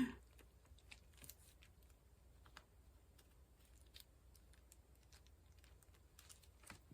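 Faint, irregular light clicks and taps of a diamond painting pen picking up square drills and pressing them onto the canvas.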